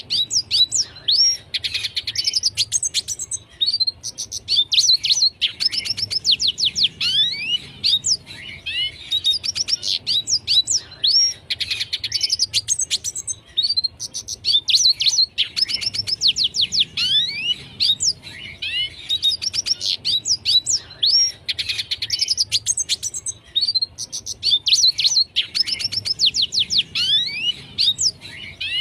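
Red siskin singing continuously: fast, high twittering phrases full of quick downward-slurred notes, each phrase lasting a couple of seconds with brief pauses between.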